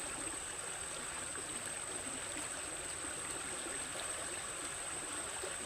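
Water of a stream flowing steadily, with a constant thin high-pitched tone over it.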